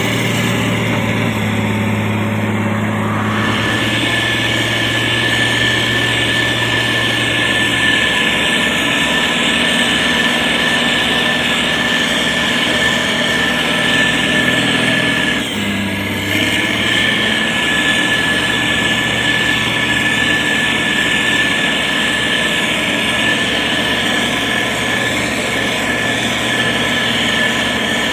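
Diesel engine of a SANY STG190C-8S motor grader running steadily, with a short dip in level about halfway through.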